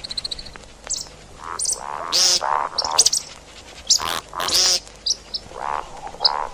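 Calls of the bird known in Arabic as shakab or 'ground chicken', played as a hunting lure: a string of harsh, croaky notes mixed with higher, sharper chirps, coming in irregular bursts about every half second to a second.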